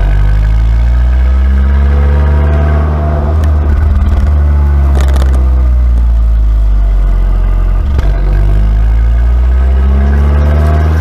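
Abarth 595C Competizione's turbocharged four-cylinder engine through a Record Monza exhaust, its pitch falling over the first few seconds as it eases off, then rising again over the last couple of seconds as it accelerates. There is a sharp crack from the exhaust about five seconds in and a brief break in the note near eight seconds.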